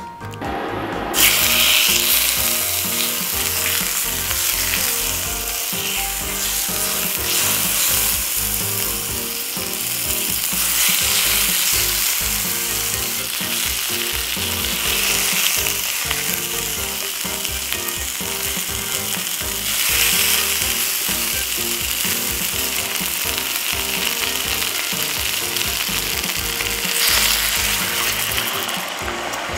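Chicken and daikon chunks searing in olive oil in a cast iron skillet: a loud, steady sizzle starts about a second in as the pieces hit the hot oil and are turned with tongs. Near the end water is poured in and the sizzle eases, with soft background music underneath.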